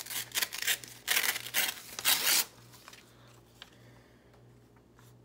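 A glossy magazine page being torn out by hand, a few ripping strokes in the first two and a half seconds, then only faint paper-handling ticks.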